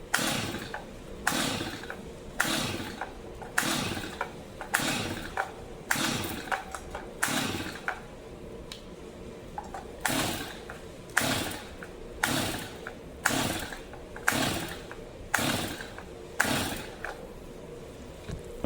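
Stihl MS 250 chainsaw's recoil starter pulled over and over, about one pull a second with a short pause midway, fully choked. The engine turns over but never fires, a sign of a flooded engine, which the mechanic suspects.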